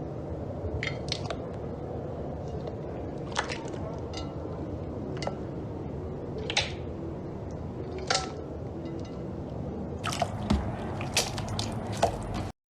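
Slime being squished by hand: short wet squelches and pops every few seconds, then a quick run of them near the end, over a steady low background hum. The sound cuts off abruptly just before the end.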